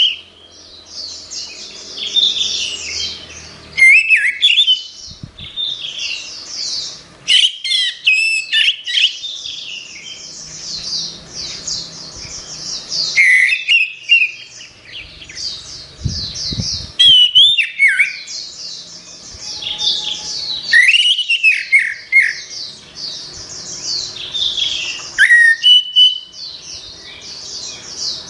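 Orange-headed thrush singing a long, continuous, varied song: rapid high twittering runs broken by louder sliding whistled phrases.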